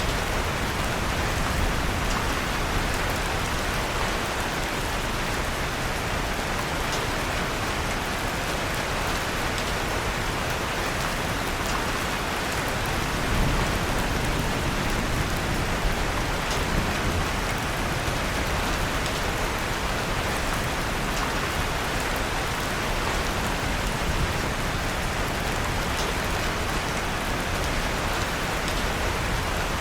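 Steady, even rain, mixed with the faint, occasional crackle and pop of a wood fire burning in a fireplace.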